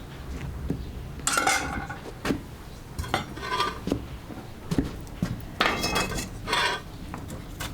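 Dishes and cutlery clinking and knocking together in a series of separate strikes, several of them ringing on briefly.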